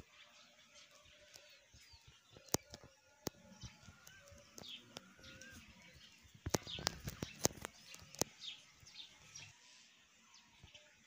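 Faint short bird chirps with a few thin pitch glides. Sharp clicks and taps are scattered throughout, thickest from about six to eight seconds in.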